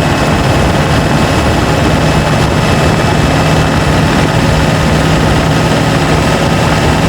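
Turbocharged diesel pickup engine pulling steadily under load uphill, heard through a microphone under the hood: a loud, even drone holding one pitch, with a thin high turbo whine above it.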